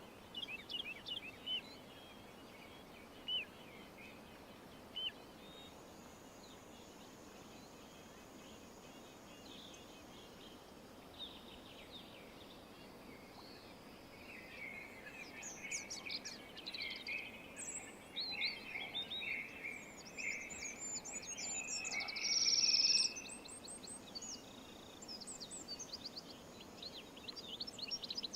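Small birds chirping and singing over a steady faint outdoor hiss: a few short chirps in the first seconds, then a busier run of twittering song from about halfway, with a loud, high, held note shortly before the end.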